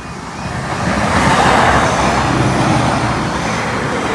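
Greater Anglia Stadler Class 755 bi-mode multiple unit passing over the level crossing: a loud rush of wheel, rail and engine noise that builds over the first second, peaks about a second and a half in and stays loud, drowning out the crossing alarm.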